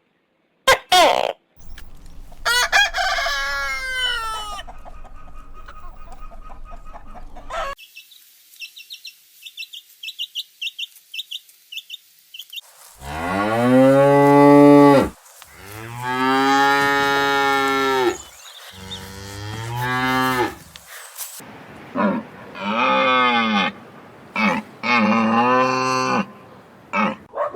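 Farm animal calls in sequence: chickens first, with a rooster crowing and quick high chirps, then cattle mooing. About halfway through come three long, low moos, followed by several shorter calls near the end.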